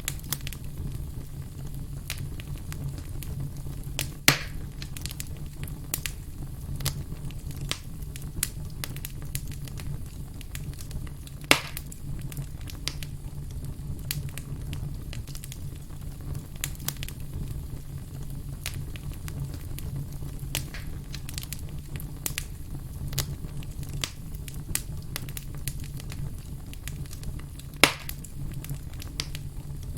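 Wood fire crackling: frequent small snaps, with three louder pops (about four seconds in, near the middle, and near the end), over a steady low rumble.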